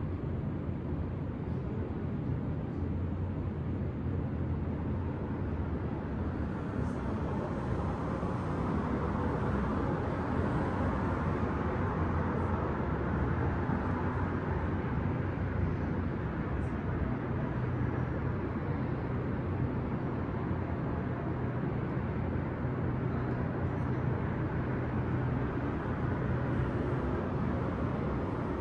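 Steady urban traffic noise, a continuous rush of cars with a low hum underneath. It swells gently about a third of the way in as a vehicle passes, then eases back.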